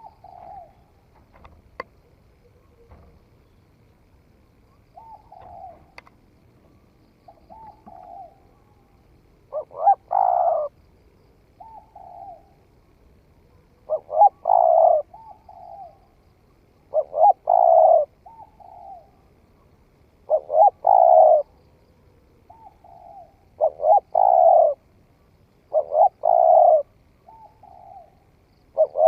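Spotted dove cooing: soft short coos alternate with loud multi-note coo phrases roughly every three seconds, the loud phrases starting about ten seconds in. The bird has only newly begun to call.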